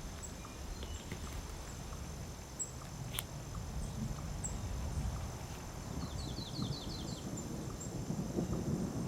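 Forest ambience: a low rumble with faint bird chirps and a short rapid trill about six seconds in. The rumble swells near the end as distant thunder rolls in.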